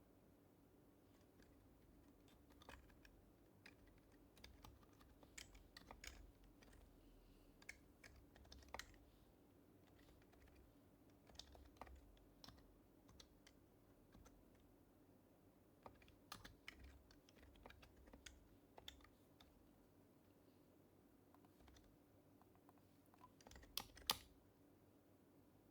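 Quiet typing on an HHKB Professional HYBRID Type-S keyboard with silenced Topre switches: soft, irregular keystrokes in short runs with pauses between, and two louder strokes close together near the end.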